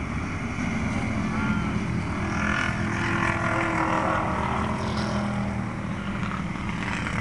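Pro street car's engine running steadily.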